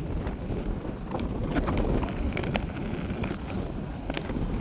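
Wind buffeting the microphone over the rolling of roller-skate wheels on pavement: a steady low rumble with scattered small clicks.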